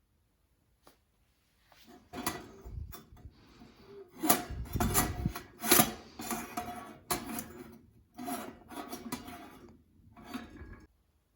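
Hard objects being handled: an irregular run of knocks, clinks and scraping, with the two loudest knocks about four and six seconds in.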